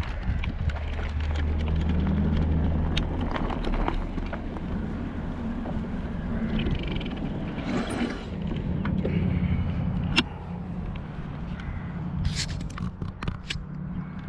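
Electric bike on the move: a steady low motor hum that rises in pitch a second or two in, over rolling noise, with a few sharp clicks.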